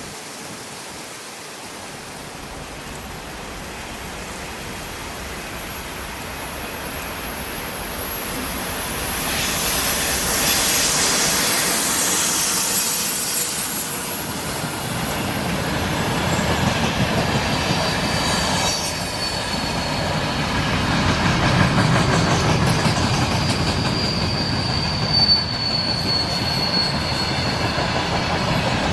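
Freight train on the rails, growing louder as it comes closer, with wheel rumble and hiss; a steady high wheel squeal sets in about two-thirds of the way through and holds.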